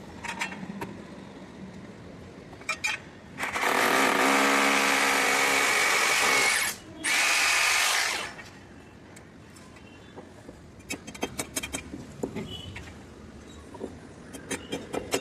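Power drill running in two bursts: one of about three seconds, then a brief stop and a second burst of about a second. Scattered clicks and knocks before and after.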